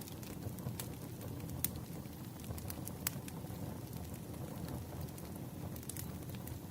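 Wood fire crackling: a steady low rumble of burning logs with scattered sharp pops.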